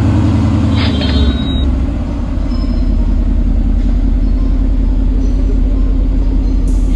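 Mercedes-AMG GT R's 4.0-litre twin-turbo V8 running at a steady idle. It cuts in abruptly, sits slightly stronger for about the first second, then settles and holds steady.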